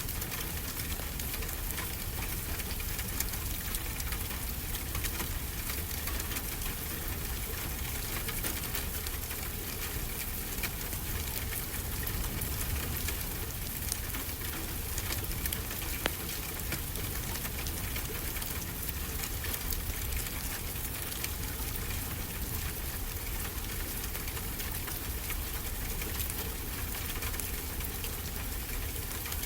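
Fireplace crackling with scattered sharp pops, one louder pop about sixteen seconds in, over a steady wash of ocean surf.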